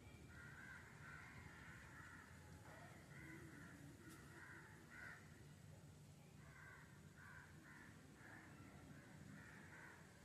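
Faint bird calls coming in repeated bursts, one cluster of calls after another, over a low steady background hum.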